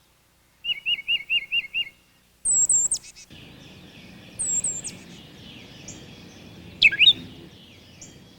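Backyard songbirds singing. First comes a quick run of six repeated whistled notes. Then, after an abrupt change, very high sweeping notes come twice, and a loud downward-slurred whistle sounds near the end.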